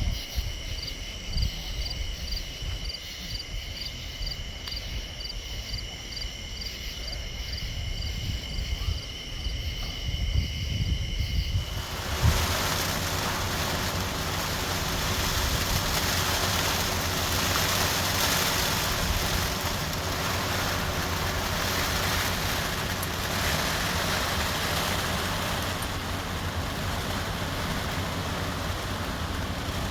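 Insects trilling steadily with a pulsing chirp about twice a second, over low wind rumble on the microphone. About twelve seconds in, this gives way abruptly to a steady, loud hiss of storm rain and wind.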